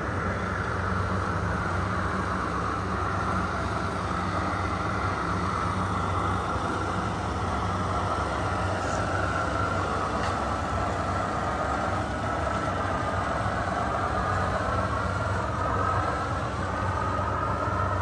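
Radio-controlled model construction trucks running: a steady low engine hum with a motor-and-gear whine that rises and falls in pitch.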